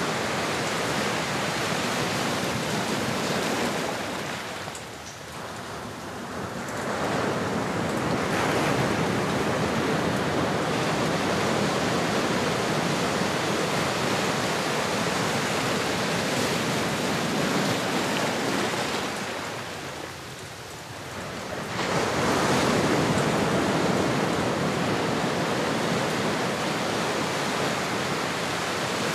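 Ocean surf: a continuous rush of waves that eases off twice, about five seconds in and again around twenty seconds, and swells back each time.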